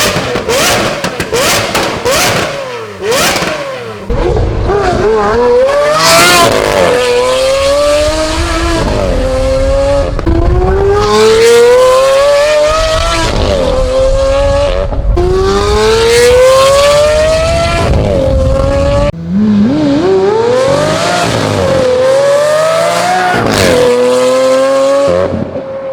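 Lamborghini Aventador LP720-4's V12 through a Brilliant aftermarket exhaust, loud and high-pitched. A rapid string of crackles and pops comes first. Then the engine note climbs for a few seconds and drops sharply, about four times over, like hard acceleration through upshifts.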